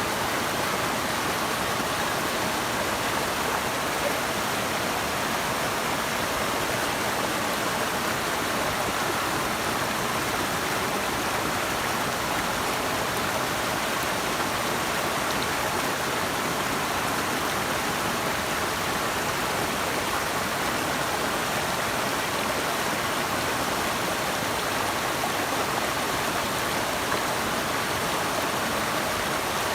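Steady rush of fast-flowing water, even and unbroken throughout.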